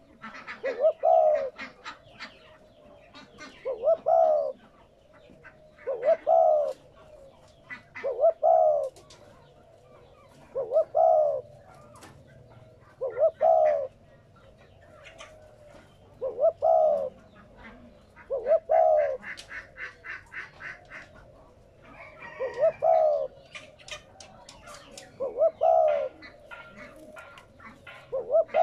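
Spotted dove cooing: a two- or three-note coo phrase repeated about every two and a half seconds, roughly eleven times, with faint high chirps from small birds between phrases.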